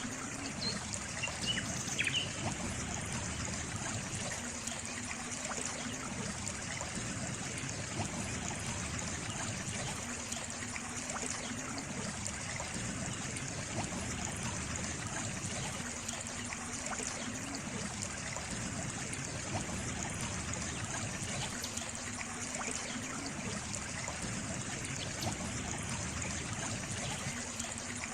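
Stream water trickling and flowing steadily, with a brief high chirp about two seconds in.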